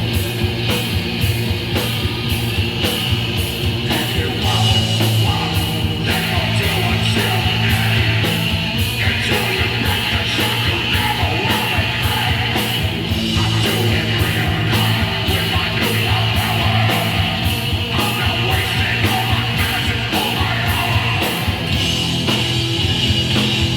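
Hardcore punk band playing live: distorted electric guitar, bass and drums with steady, rapid cymbal strokes, and shouted vocals over the top.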